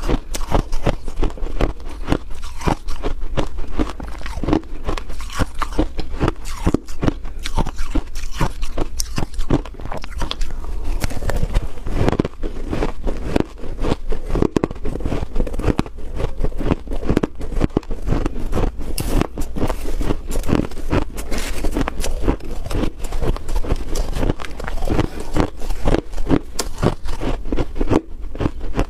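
Close-up biting and crunching of freezer frost: a dense, irregular crackle of many small crunches, with chewing and some scraping.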